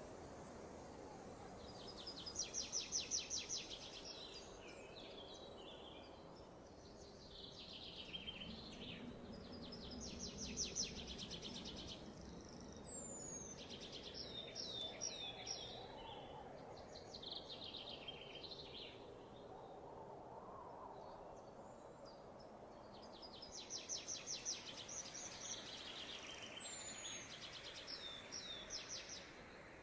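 Wild birds singing: bouts of rapid trills and short slurred whistled notes, coming in about four bursts, over faint steady background hiss.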